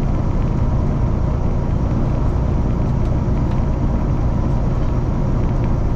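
Kenworth T680 semi truck cruising at highway speed, heard from inside the cab: a steady, unbroken drone of engine, tyres and road.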